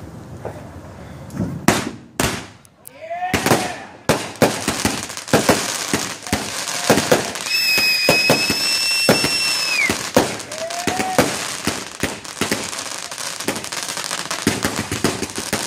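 Consumer fireworks going off: rapid irregular bangs and crackling throughout, with a high steady whistle lasting about two seconds in the middle that drops in pitch as it ends.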